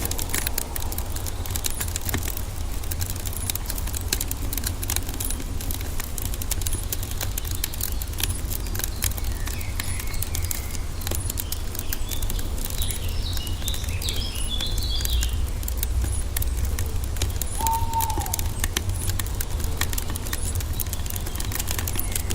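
Wood fire crackling with many small pops over a steady low rumble. Birds chirp faintly for a few seconds in the middle.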